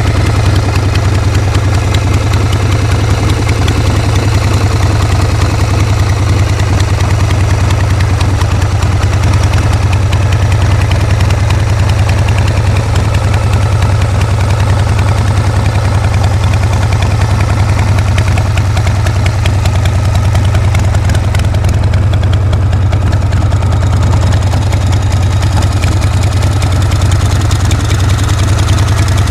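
Harley-Davidson Shovelhead V-twin engine idling steadily.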